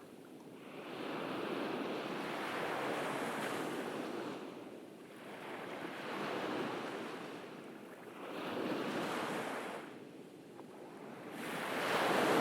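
Ocean waves breaking and washing up a beach, swelling and fading in four surges about three seconds apart, the last one the loudest near the end.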